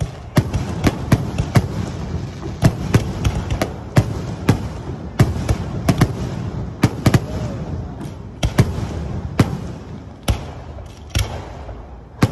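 Fireworks display: aerial shells launching and bursting in a rapid, irregular run of sharp bangs and pops, several a second, over a low rumble.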